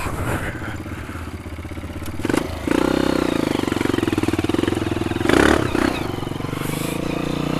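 Honda CRF230F dirt bike's four-stroke single engine running at low throttle, then opened up about two and a half seconds in and held at a higher pitch. A loud clatter of the bike over the trail comes about five and a half seconds in.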